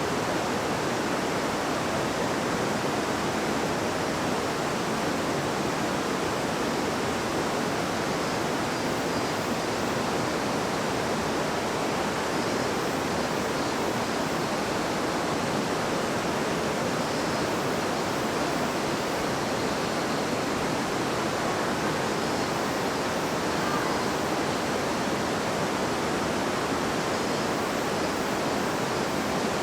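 A river babbling steadily: an even, unbroken wash of flowing water.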